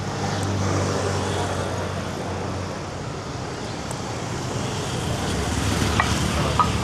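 Street traffic: a motor vehicle passes close, its engine loudest about a second in and fading after a couple of seconds, over a steady traffic hum. Two short sharp knocks come near the end.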